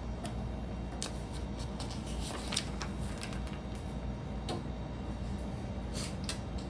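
Scattered light clicks and taps of plastic Lego pieces being handled and pressed together, a handful spread irregularly over a few seconds, over a steady low hum.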